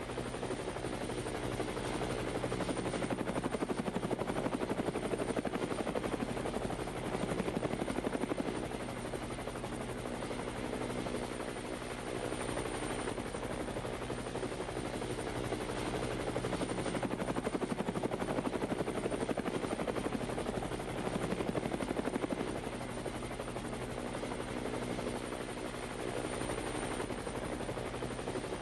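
Parrot Bebop 2 quadcopter drone in flight, its four propellers and motors giving a steady buzzing whir with a fast flutter, swelling and easing slightly now and then.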